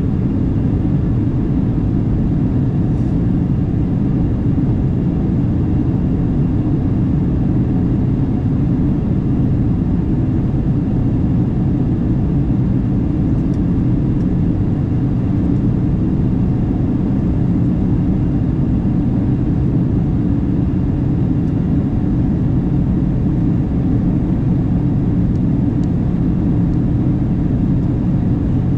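Steady cabin drone inside a Boeing 737-900 on approach: the engines and the rush of air along the fuselage heard from a window seat. The noise is deep and even throughout, with no change in level.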